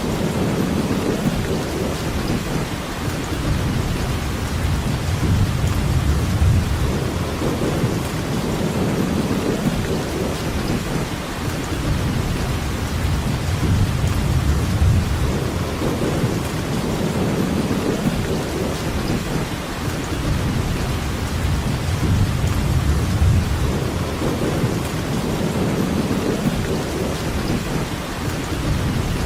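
Steady heavy rainfall, an even hiss, under a low rumble that swells and fades every couple of seconds.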